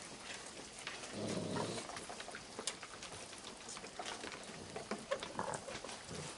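A crowd of raccoons feeding, with many scattered small clicks and taps from chewing and claws on the ground. A brief low grumble comes about a second in.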